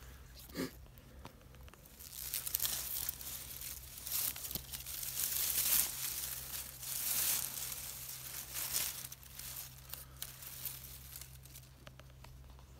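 Irregular rustling and crinkling, loudest in the middle and easing off near the end.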